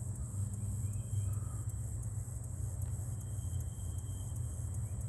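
Steady low engine hum of a vehicle running, with a few faint short chirps over it.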